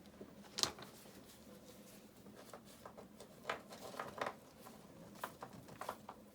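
Scattered short clicks and scrapes from river rock and mortar being handled and set, with the sharpest click about half a second in.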